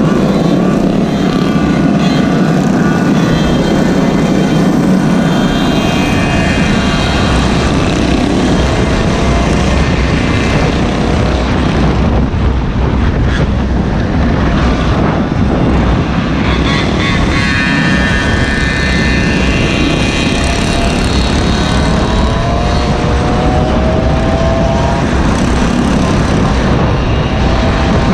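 Small engines of gas Gopeds and mini bikes running at riding speed, a high buzzing drone, with heavy wind noise on the microphone. An engine's pitch rises a few times near the end as it revs up.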